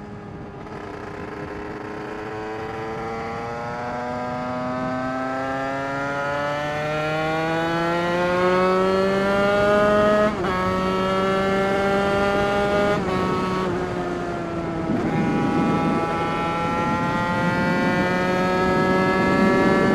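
Derbi two-stroke supermotard engine, bored to 80cc with a Malossi MHR Team kit and breathing through a Bidalot expansion-chamber exhaust, pulling hard under acceleration. The pitch climbs steadily for about ten seconds, then drops sharply at a gear change, with two more shifts a few seconds later before it climbs again.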